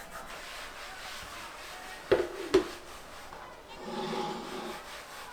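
Two sharp knocks about half a second apart, like something hard being set down or bumped on wood, then a short pitched sound over a faint household background.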